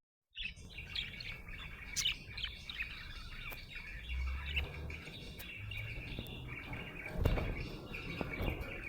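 Budgerigar chirping and chattering, a busy run of short chirps and warbles, after a brief dropout at the very start. A low thump sounds about seven seconds in.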